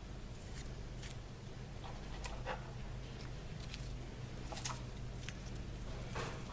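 Scattered light clicks and short rustles of paper and craft materials being handled, over a steady low hum.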